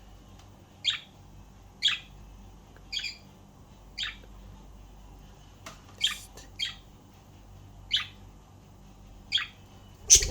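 Pet budgerigars giving short, sharp chirps, roughly one a second, with a louder burst of calls near the end.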